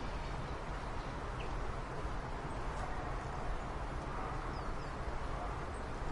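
Steady outdoor background noise with a low rumble and a few faint, brief high chirps from birds.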